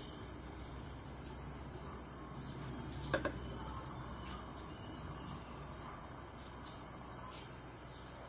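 Quiet background with a steady low hum, faint short high chirps every second or so, and a single sharp click about three seconds in.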